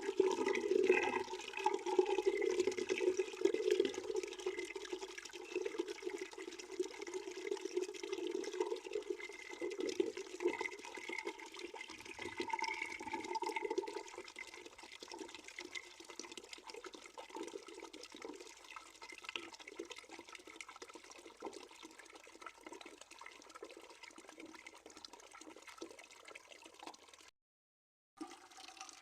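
Water running into a bucket as it fills: a steady splashing rush, louder in the first half and quieter from about halfway through. The sound cuts out completely for about a second near the end.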